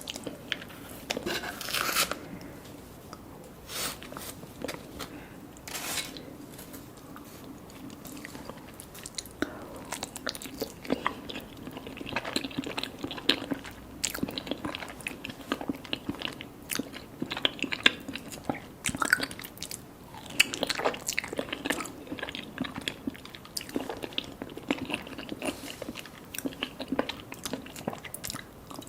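Close-up eating sounds of mango mochi with popping mango boba: biting and chewing, with many small sharp clicks and pops throughout, thicker in the second half.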